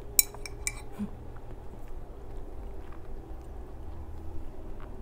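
Close-up chewing of a mouthful of cream pasta, with lip-smacking. Twice, near the start, a metal fork clinks sharply against the ceramic bowl.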